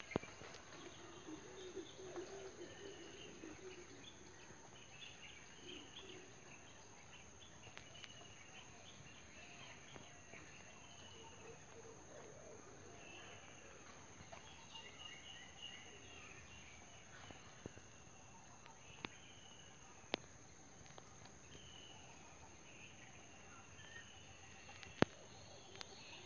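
Faint outdoor ambience with distant birds chirping on and off, and a few isolated sharp clicks.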